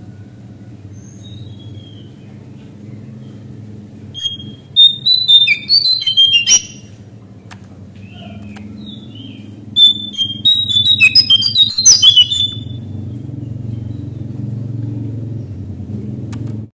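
Lesser shortwing (cingcoang coklat, jongkangan) singing: two bursts of rapid, high, tumbling notes, each lasting about two seconds, with a few soft single calls between them. A steady low hum runs underneath.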